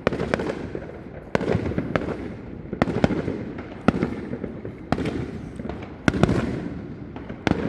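Fireworks going off: a run of sharp bangs about once a second, some close together, over a continuous rumble of further explosions.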